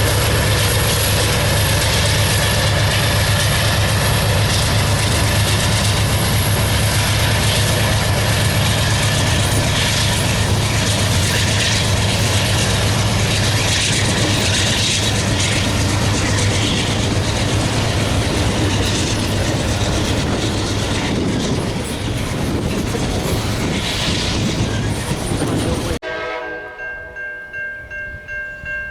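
Freight train passing close: a steady, loud roar of diesel locomotive rumble and steel wheels on rail. It cuts off sharply near the end, and a locomotive's multi-chime air horn sounds its chord.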